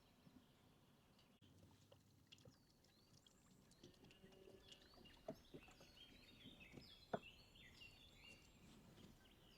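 Faint birdsong: many quick, high chirps that grow busier partway through, with a few light clicks or taps, the sharpest about seven seconds in.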